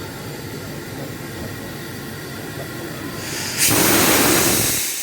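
A locomotive rumbling steadily, then a sudden loud hiss of escaping pressure about three and a half seconds in that lasts just over a second and then dies away.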